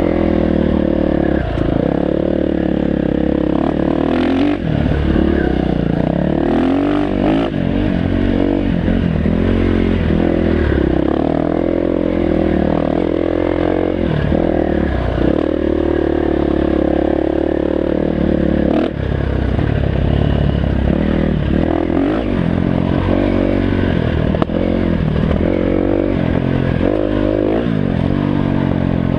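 Dirt bike engine revving up and down continuously as the bike is ridden over rough trail, with clattering and scraping mixed in.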